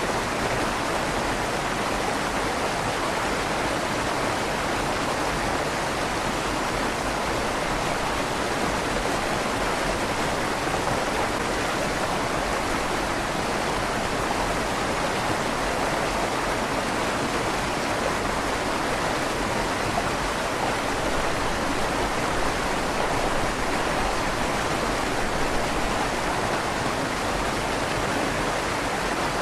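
River water flowing steadily under a stone bridge, a constant rushing with a slight echo off the stone tunnel walls.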